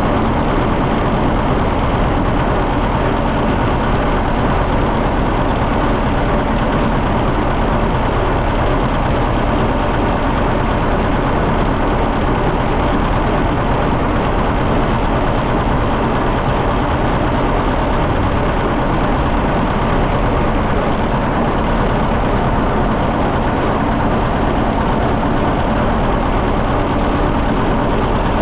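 John Deere 730 tractor's two-cylinder engine running steadily on the road, its firing pulses heard as a dense, even beat.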